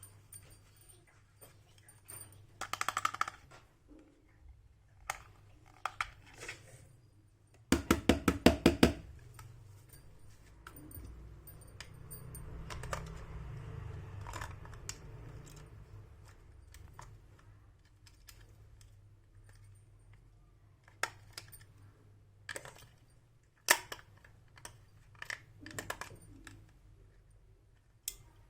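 Small plastic toy pieces being handled: scattered clicks and taps, with a quick run of about a dozen clicks about eight seconds in.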